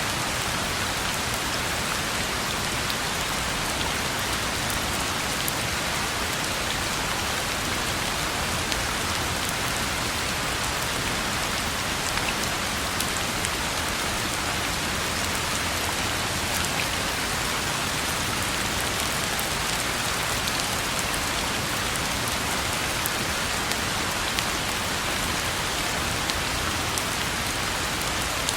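Steady rain falling on a road: an even, unbroken hiss with scattered individual drop ticks.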